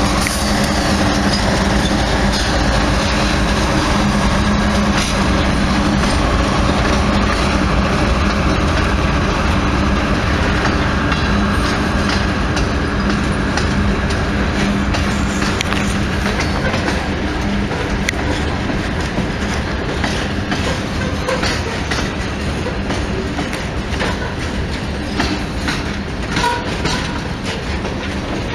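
Train rolling past at close range: a locomotive engine hum that fades over the first half, under a steady rumble of wheels, then the cars' wheels clicking over rail joints in a run of sharp clacks.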